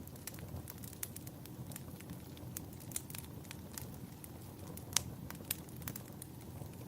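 Wood fire burning in a fireplace: a steady low rumble of flame with frequent irregular crackles and pops, the sharpest pop about five seconds in.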